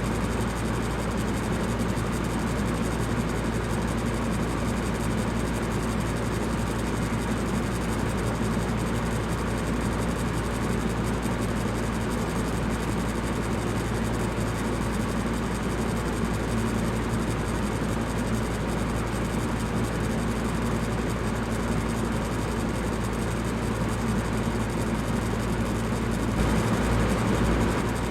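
Electric fan running steadily: a constant rush of air over a low motor hum, swelling slightly for about a second near the end.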